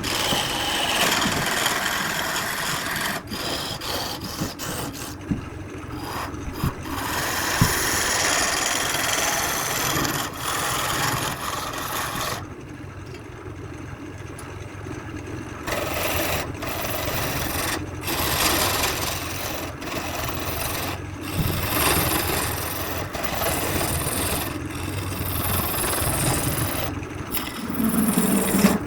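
Abrasive rubbing on wood: a steady rasping scrape of sanding or rasping work on a turned piece, which pauses twice and resumes.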